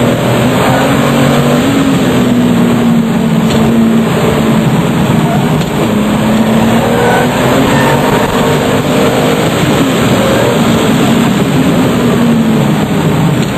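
RUF CTR 'Yellow Bird' twin-turbocharged flat-six running hard at speed, its engine note climbing and dropping again and again as the car accelerates and lifts.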